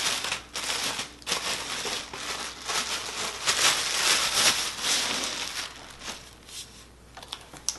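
Packaging crinkling and rustling as it is handled. The rustling is dense for about six seconds, then thins to a few scattered crackles near the end.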